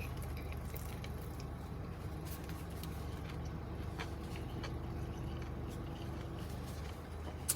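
A steady low hum with a few faint clicks of someone chewing a bite of a breaded chicken hot dog.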